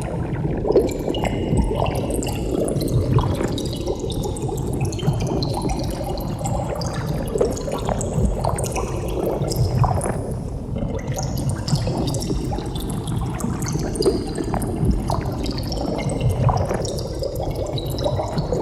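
Bubbles streaming through water: many small high bubble blips over a steady low rumble.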